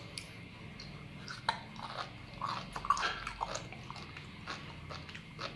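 A person chewing a mouthful of sea grapes (Caulerpa lentillifera seaweed), with a run of small wet pops and clicks, mostly between about one and a half and three and a half seconds in.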